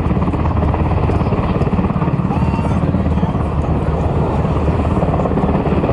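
HH-60G Pave Hawk helicopter running steadily, its main rotor beating rapidly over the engine noise.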